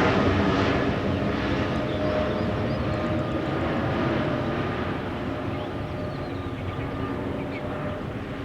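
Jet airliner engines at takeoff power: a heavy rumble with a steady whine, fading gradually as the aircraft moves away.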